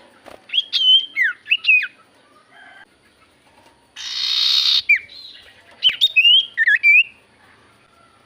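Common iora (cipoh) song: clusters of short whistled notes sliding up and down, with a harsh hissing rasp about four seconds in, then another run of whistles.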